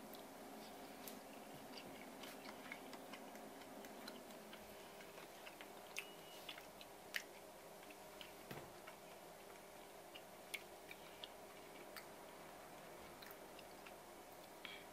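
Faint chewing of a mouthful of sashimi, with scattered small clicks and ticks over a low, steady room hum.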